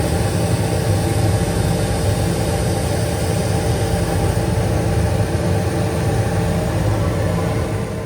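Harley-Davidson Road King's V-twin engine idling steadily with a low, uneven rumble.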